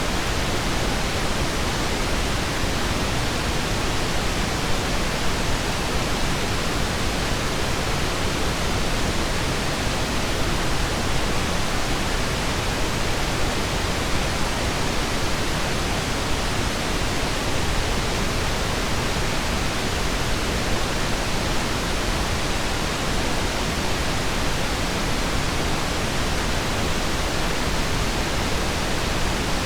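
Steady synthetic pink noise: an even, unchanging hiss spread across all pitches, with no tones or ticks.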